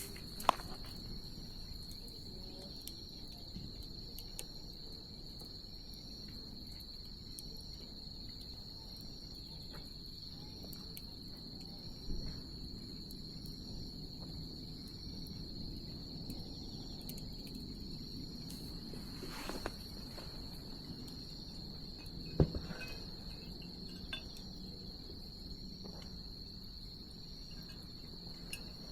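Crickets trilling steadily at a high pitch, with a second insect chirping in regular pulses above them, over the low hiss of a bonfire. The fire pops sharply a few times, loudest about half a second in and about 22 seconds in.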